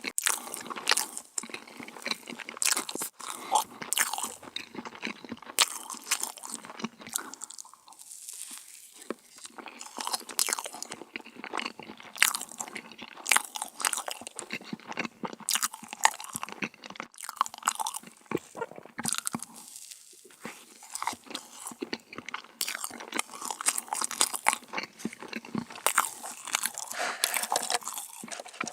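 Close-miked eating of dessert: dense, irregular crisp crunching and chewing, pausing briefly twice.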